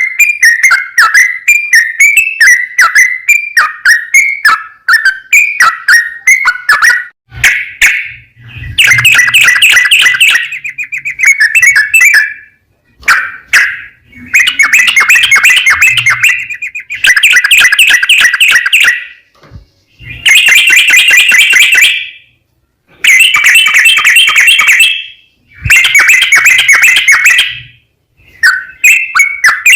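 Yellow-vented bulbul (trucukan) singing. It gives short repeated notes at first, then six long, rapid, chattering song phrases of two to three seconds each with brief pauses between them, then short notes again near the end.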